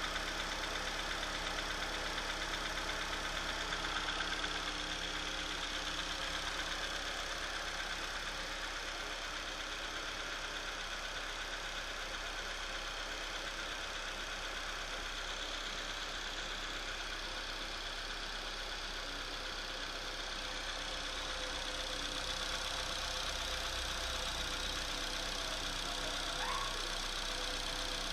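Chevrolet Astra 2.0 engine idling steadily while still cold, with the strange noise its owner hears from it when cold.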